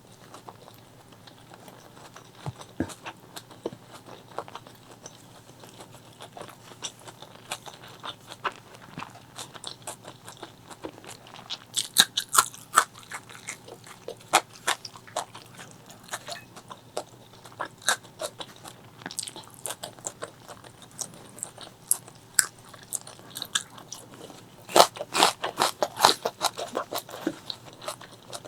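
Close-miked eating sounds of a person chewing spicy chicken liver, gizzard and rice: wet chewing with many small crunches, and louder clusters of crunches about twelve seconds in and again near the end.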